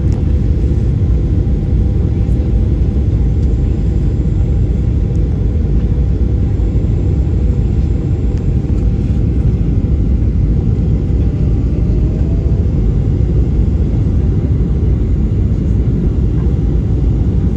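Steady low rumble of a Boeing 737-800 airliner in flight, engine and airflow noise heard from inside the passenger cabin.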